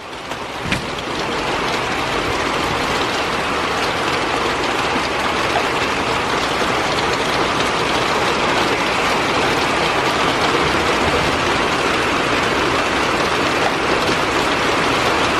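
Heavy wind-driven rain pouring down in a loud, steady hiss that builds over the first couple of seconds.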